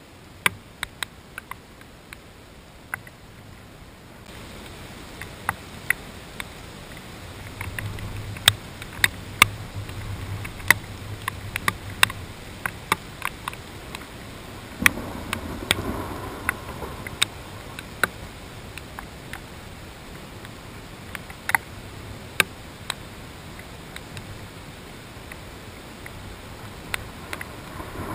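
Scattered raindrops ticking on a GoPro's waterproof housing: irregular sharp taps, thicker for a few seconds near the middle, over a steady hiss of rain and wind. A low rumble of thunder swells briefly about halfway through.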